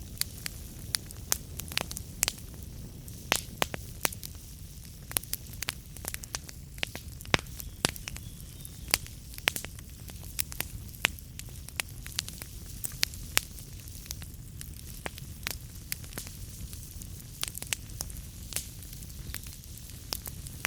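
Wood fire in a fireplace burning and crackling, with frequent irregular sharp pops and snaps over a steady low rumble of the flames.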